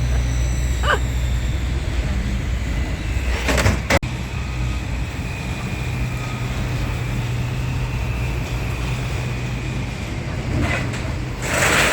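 A vehicle engine running steadily with a low hum, broken by a brief rush of noise a few seconds in and another near the end.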